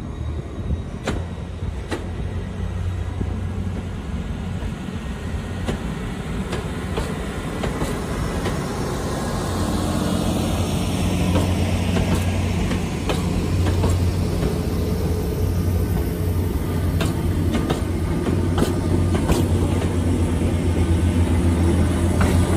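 Train running nearby, a steady low engine drone that grows louder through the second half, with many scattered clicks and knocks.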